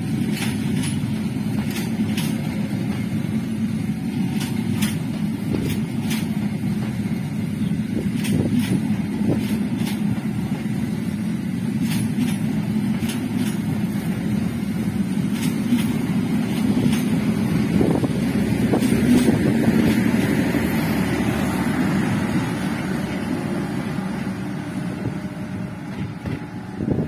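Passenger train coaches rolling past at close range: a steady rumble of steel wheels on the rails with occasional sharp clacks. It grows a little louder about two-thirds of the way through, then fades as the last coach moves away near the end.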